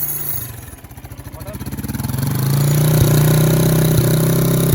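Motorcycle engine dropping to a slow, pulsing idle about a second in, then revving up and holding a steady, louder, higher note.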